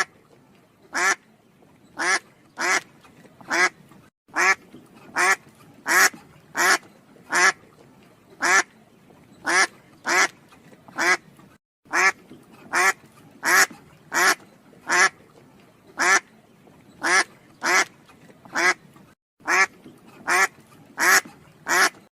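A bird or animal call, short and pitched, repeated steadily about every three-quarters of a second, broken off abruptly three times by a moment of dead silence.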